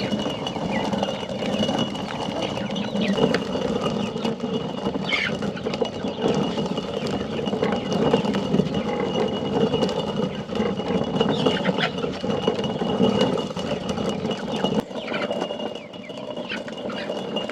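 Hand-turned stone mill grinding corn: a steady, continuous grinding rumble of stone on stone.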